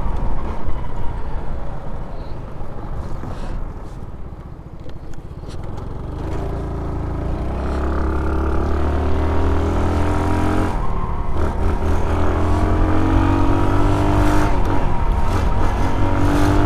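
Small motorcycle engine heard from the rider's seat, easing off into a corner and then pulling away. Its pitch climbs, drops back and climbs again twice, over wind and road noise.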